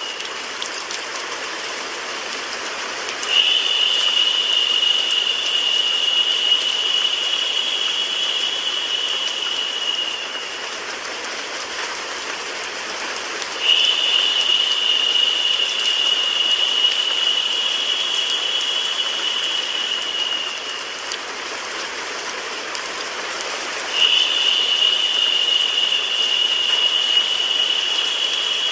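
Rain sound mixed with white noise, a steady even hiss. A brighter high hiss cuts in sharply three times, about every ten seconds, and each time tapers off after about seven seconds: a repeating loop.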